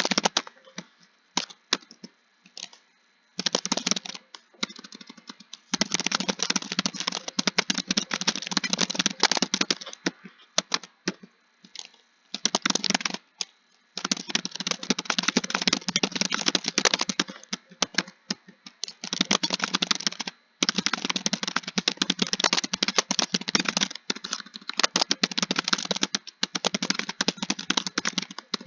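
Fast typing on a computer keyboard: dense runs of key clicks broken by short pauses of a second or two.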